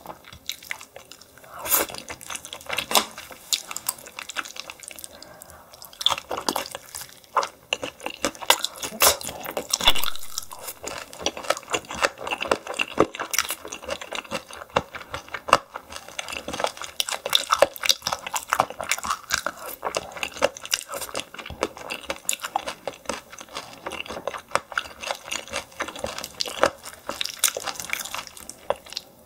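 Close-miked chewing of steamed yellow stingray: wet, smacking mouth sounds with a dense run of crunchy little clicks.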